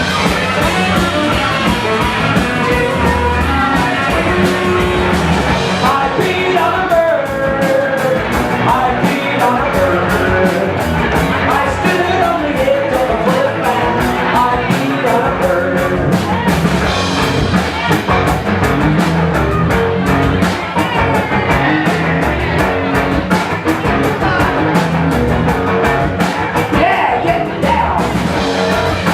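Rock band playing loud, driving music with electric guitar, drums and singing.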